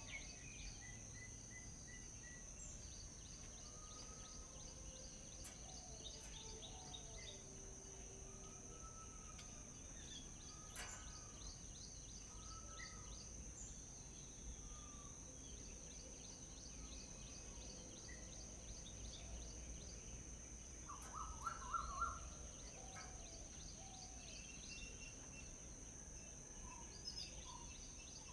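Faint chorus of wild forest birds calling and singing: scattered short chirps, quick trills and slurred whistled notes, with the loudest quick burst of notes about three-quarters of the way through. A steady high insect drone runs underneath.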